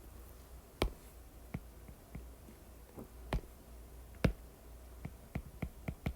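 Scattered sharp clicks and taps of writing out an equation by hand at a desk: four louder taps spaced about a second apart, then a quick run of lighter ticks near the end, over a low steady hum.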